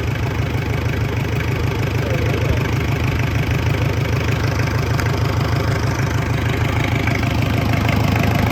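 Isuzu C240 four-cylinder diesel running steadily at idle on a test bench, just started for the first time after its fuel system was bled, with a dry exhaust manifold fitted.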